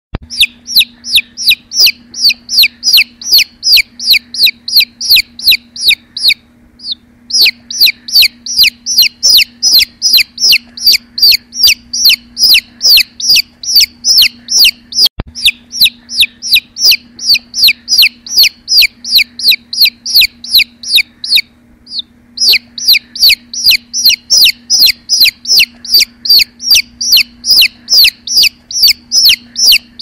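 Young bird chirping, a high downward-sweeping call repeated about three times a second, with two breaks of about a second. A faint steady hum sits underneath.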